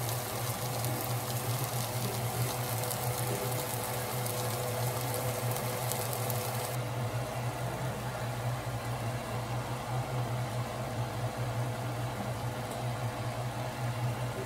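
Octopus-and-shrimp stir-fry sizzling in a frying pan, over a steady low hum. The high hiss of the sizzle thins about seven seconds in.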